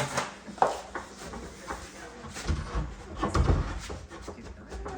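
Handling knocks and scrapes as a ladder is moved and wooden boards are shifted: a couple of sharp knocks about half a second in, then a run of dull thuds from about two and a half seconds in.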